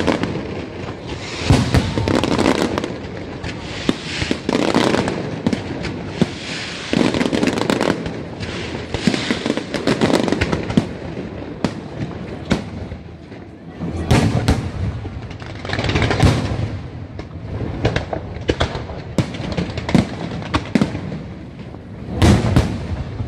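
Large aerial fireworks display: many shells bursting overhead in quick succession, rapid sharp bangs and crackles that swell and ease in waves every few seconds.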